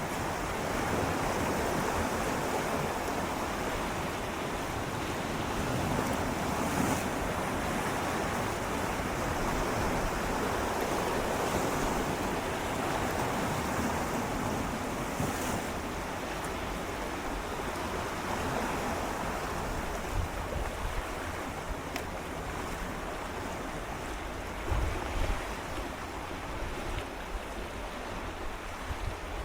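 Gentle sea waves swirling and lapping against shoreline rocks, a continuous wash that swells and eases slowly, with a few small splashes.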